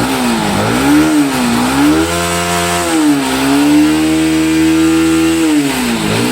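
Bajaj Pulsar NS160's single-cylinder engine being revved in repeated throttle blips: the revs rise and dip twice in quick succession, then are held up for about a second, dip briefly, are held up again for about two seconds, and fall back near the end.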